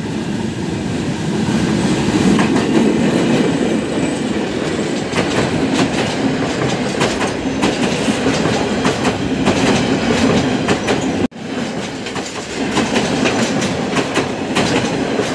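Bangladesh Railway diesel-hauled commuter train passing close by, first the locomotive and then a long line of coaches, with steady rumble and wheels clattering over the rail joints. The sound cuts out for an instant about eleven seconds in.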